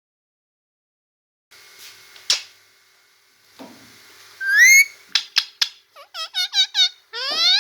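A pet parrot whistling: a rising whistle, then a quick run of short chirping whistles at about four a second, then another long rising whistle near the end. A single sharp click comes a little over two seconds in, before the whistling.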